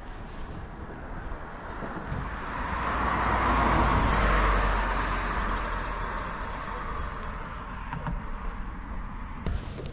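A vehicle passes by: its road noise swells over a couple of seconds, peaks, and fades away, over a steady low rumble. A short click comes near the end.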